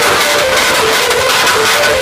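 Loud electronic dance music blasting from a large sound-system rig, with a dense, steady wash of sound and a stepping melody line.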